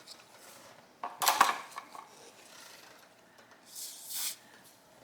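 Hand tools and the metal carburetor body clattering and scraping on the bench while working at a seized screw: a short clatter about a second in and a briefer, higher scrape near four seconds.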